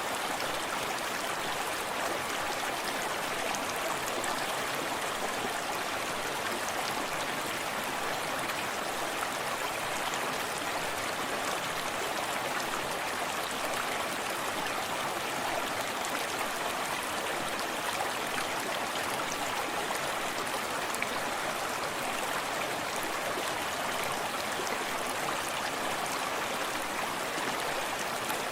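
Small forest stream running steadily over rocks, a constant rushing of water with fine splashing and trickling.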